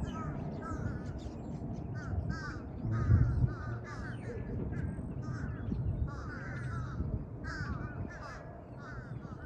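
Crows cawing over and over, in quick runs of short calls, with fainter high-pitched bird chirps above them.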